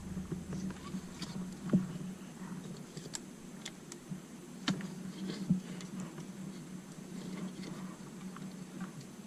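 Scattered light clicks and taps of small plastic parts being handled as a drone's flight battery is slid into its bay, over a faint steady hum.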